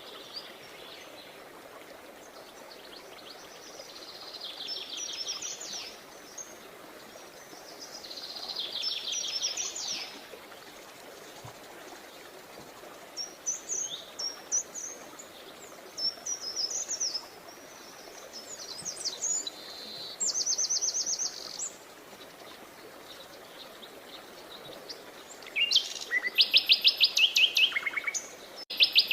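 Songbirds singing: short phrases of rapid repeated notes and scattered chirps every few seconds, with the loudest and fastest trills near the end. A steady faint background noise runs underneath.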